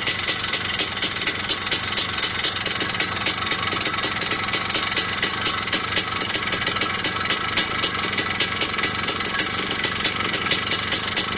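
Engine idling with a fast, even knocking or ticking that repeats several times a second, which the owner wonders may be piston slap.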